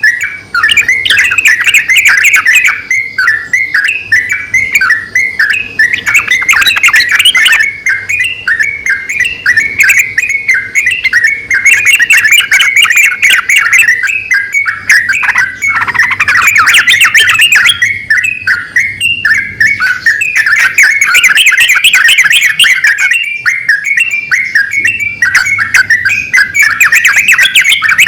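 Yellow-vented bulbuls, a male and a female, calling back and forth in a loud, almost unbroken run of quick chirping notes, with a couple of short dips.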